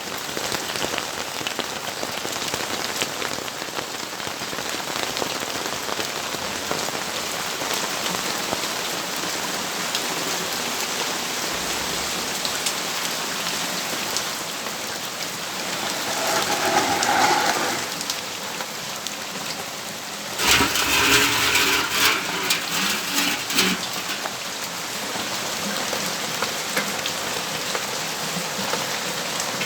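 Steady rainfall, an even hiss of drops hitting surfaces. Past the middle come two louder stretches of noise lasting a few seconds each.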